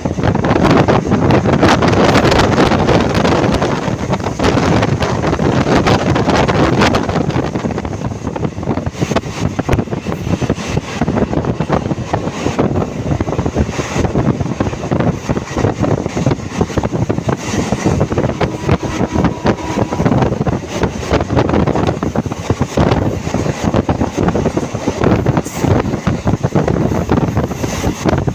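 Moving train running with a steady rumble and dense rattling, with wind buffeting the microphone; it is louder for the first several seconds, then eases a little.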